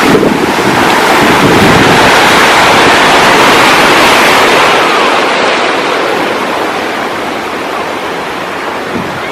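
Ocean surf: a wave breaking and washing in, swelling to its loudest a couple of seconds in, then slowly easing off. Wind noise on the microphone runs underneath.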